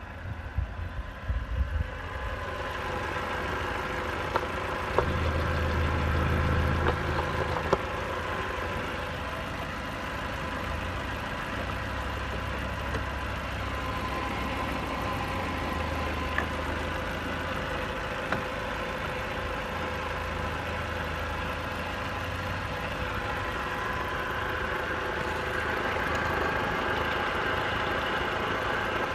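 Peugeot/Citroën 1.6 NFU sixteen-valve petrol four-cylinder engine idling steadily. Wind buffets the microphone in the first couple of seconds.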